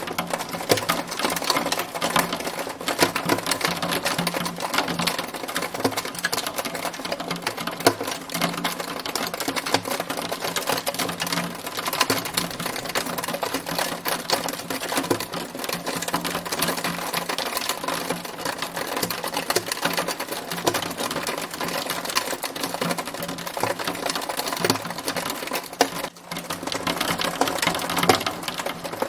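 Hail storm: hailstones pelting a hard surface in a dense, rapid, continuous clatter, with a brief lull about 26 seconds in.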